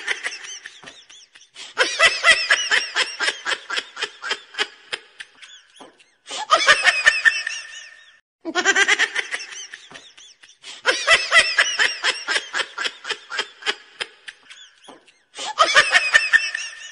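Laughter sound effect: high-pitched giggling in rapid rhythmic ha-ha pulses, in bursts of a few seconds with abrupt silent gaps between. The same run of laughs repeats about nine seconds later, as a looped clip.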